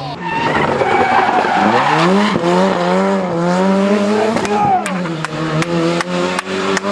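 Ford Sierra Cosworth Group A rally car's turbocharged four-cylinder engine revving hard, its pitch rising and falling with the throttle. A run of sharp cracks comes over the last two seconds.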